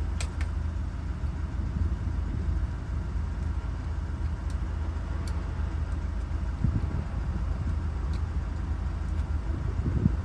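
Steady low engine hum, like a vehicle idling, with a few faint light clicks.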